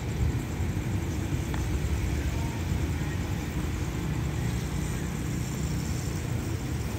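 Steady low rumble of a diesel-hauled express train pulling away down the line.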